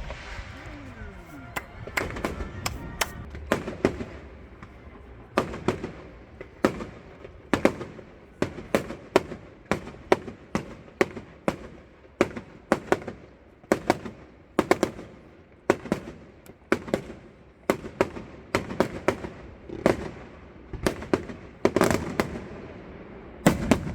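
Fireworks display: a string of sharp bangs in quick, irregular succession, each with a short echo, several louder ones near the end.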